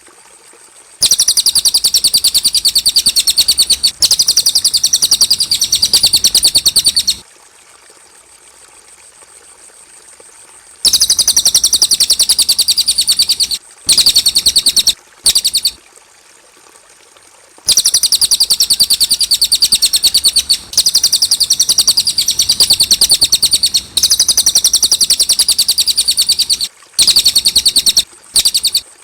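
Cililin bird singing: long, very rapid high-pitched trills in several bouts, the longest lasting several seconds, broken by short pauses and a few brief bursts near the end.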